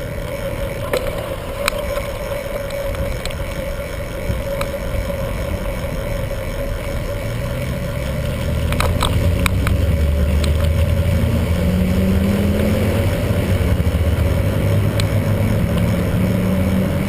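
Wind and road noise on a camera riding along with a bicycle in traffic, with small rattling clicks. From about halfway through, a motor vehicle's engine grows louder and slowly rises in pitch.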